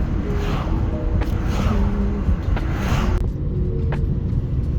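Car driving along, a steady low rumble of engine and road noise heard inside the cabin.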